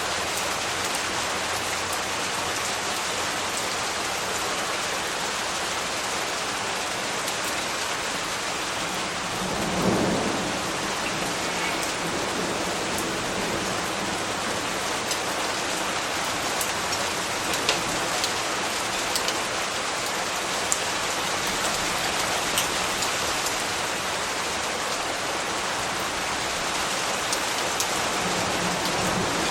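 Steady rain falling, with a brief low rumble of thunder about ten seconds in and scattered sharp ticks of individual drops.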